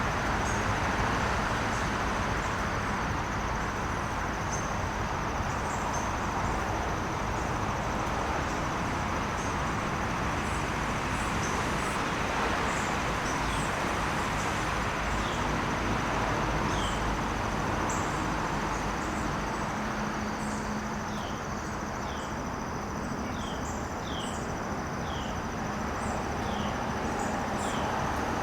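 Outdoor garden ambience: a steady background rush, a continuous high insect trill, and, from about halfway through, a bird giving many short descending chirps.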